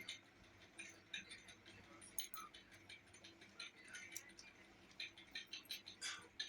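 Faint eating sounds: an irregular scatter of short clicks and smacks, as of chewing and hand-mixed rice.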